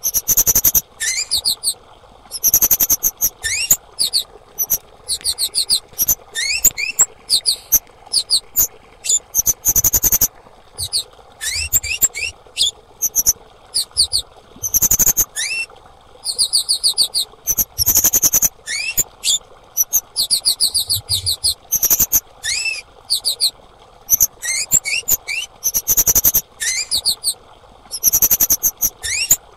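Female kemade bird calling: short bursts of rapid, high, thin chirps and trills with quick upward sweeps, repeating every second or so.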